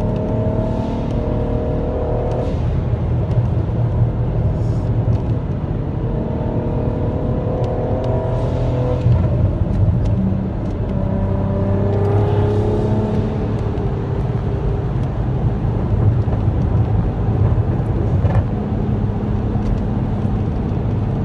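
Turbocharged car engine accelerating under load, its pitch climbing in pulls of two or three seconds, three times, over a steady low rumble.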